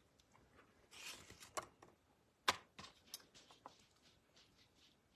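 Faint handling sounds as cabbage rolls are arranged and patched in a baking pan: soft rustles and light clicks, with one sharper click about two and a half seconds in.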